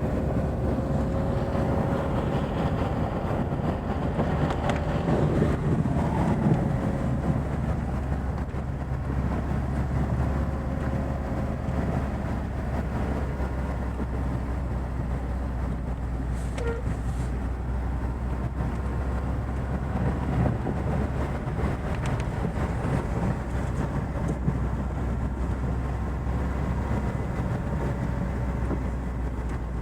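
Chevrolet Niva's four-cylinder engine running steadily while the car drives through fresh snow, a continuous low rumble of engine and tyres with a steady engine tone.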